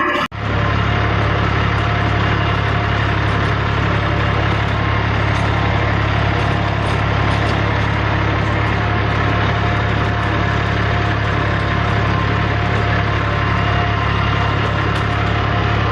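Tractor engine running steadily with a strong low hum.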